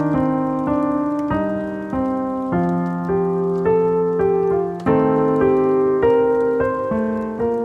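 Slow, gentle piano music: soft chords struck one after another and left to ring out.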